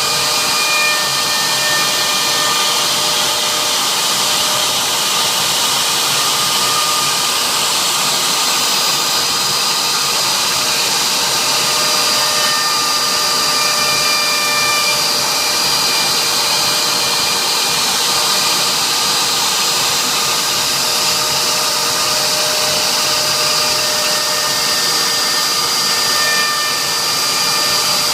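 CNC router engraving, its spindle running steadily with a rushing noise. Thin whining tones come and go and shift in pitch every few seconds as the machine moves along its cutting path.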